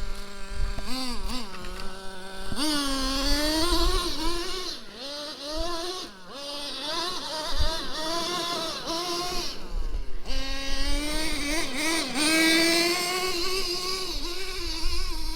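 Traxxas T-Maxx 3.3 nitro engine, a small two-stroke glow engine, holds a steady idle, then revs up and down under throttle as the truck is driven. It drops back briefly twice, about midway and about two-thirds of the way in, before revving high again.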